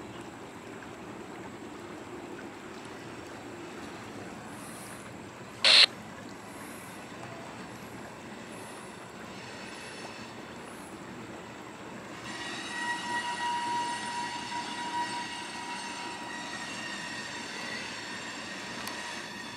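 Freight cars of a slow-moving mixed freight train rolling with a steady rumble. About six seconds in there is one short, sharp metallic crack, and about halfway through a steady high-pitched metallic wheel squeal sets in and carries on.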